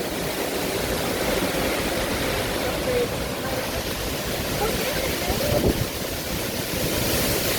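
Strong wind of a windstorm rushing steadily, with heavy rumble as it buffets the microphone.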